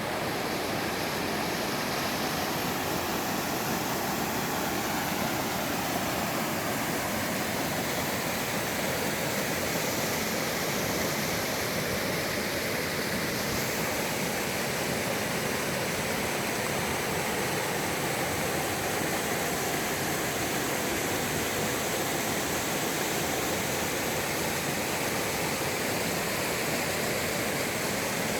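Mountain valley stream, water rushing steadily with an even, unbroken sound.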